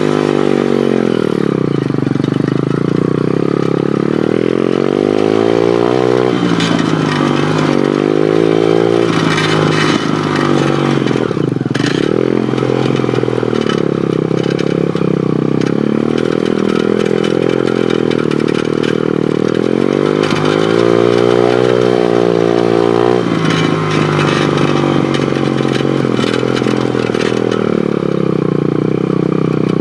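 Pit bike engine running while the bike is ridden, its revs falling and climbing several times as the throttle is closed and opened, with some rattling and knocking from the bike in the middle.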